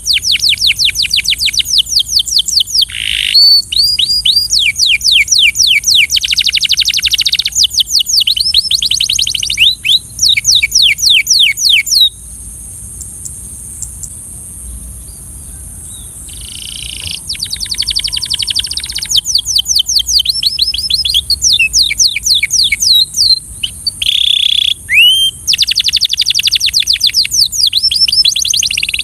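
Canary singing in long, rapid trills of quickly repeated down-sweeping notes, phrase after phrase. The song breaks off for a few seconds about midway, then starts again.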